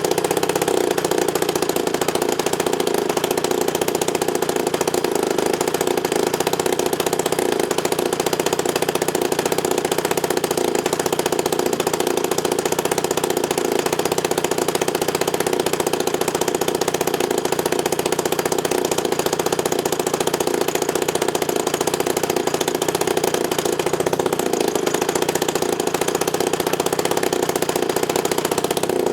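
Husqvarna chainsaw's single-cylinder two-stroke engine, converted to electronic ignition, running at a steady speed while driving a large propeller.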